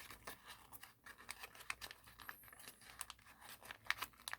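Thin origami paper crinkling and crackling in quick, irregular little snaps as folded layers are pried apart and spread open by hand.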